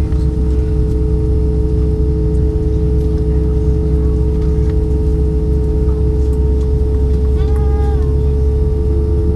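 Steady cabin noise inside an Airbus A320-232 on the ground: a deep rumble and a steady hum from its IAE V2500 engines running at low power. A short, muffled, voice-like sound comes about seven seconds in.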